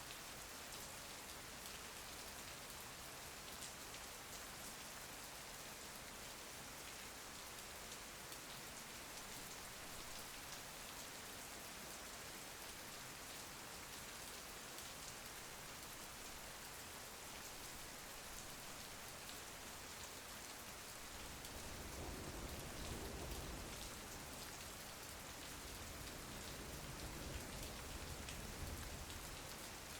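Steady rain falling and pattering on a surface, with fine drop ticks throughout. About two-thirds of the way through, a low rumble joins in, swelling twice.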